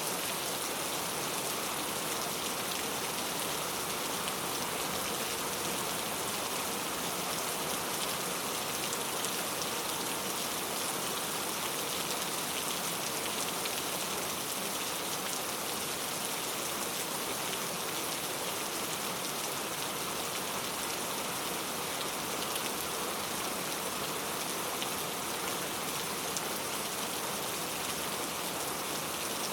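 Steady rain falling, a dense even hiss with many fine drop ticks, unchanging throughout.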